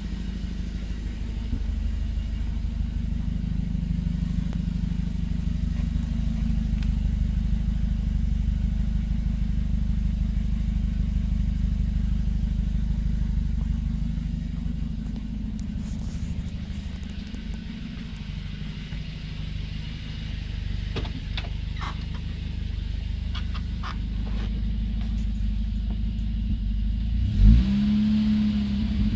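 Volvo 760 Turbo engine idling with no muffler fitted, a steady deep exhaust rumble. Near the end the revs rise briefly and fall back.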